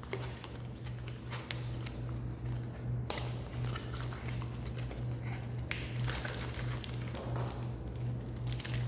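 Packaging rustling and crinkling as a K2 meter is unboxed and handled, with a few light clicks and taps, over a steady low hum.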